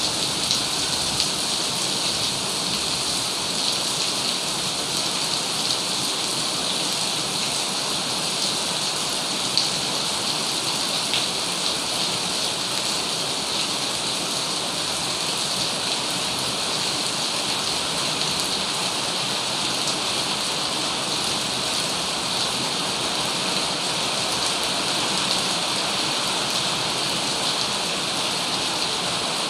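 Heavy rain falling steadily, an even hiss with scattered drop ticks and no break.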